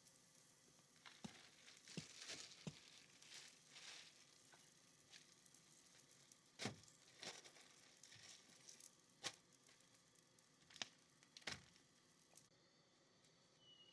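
Faint, irregular crackling and sharp clicks, a few louder pops among them, over a low hiss; the crackling thins out near the end.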